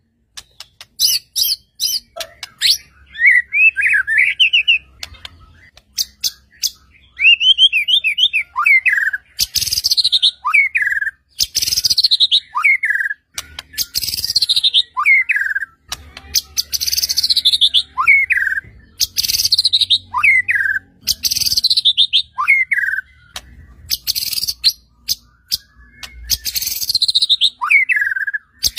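White-rumped shama (murai batu) singing loudly: sharp clicks and quick warbled trills, then a phrase repeated about every two seconds, each a whistle sliding steeply downward.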